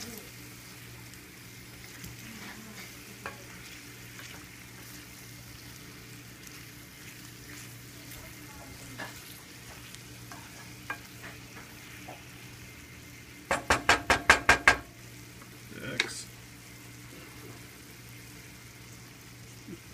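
Chopped red-cap boletus mushrooms sizzling in oil in a stainless steel frying pan, stirred with a wooden spatula that scrapes and clicks against the pan. About two-thirds of the way in comes a quick run of about eight loud, sharp strokes, the loudest sound here, then one more loud knock.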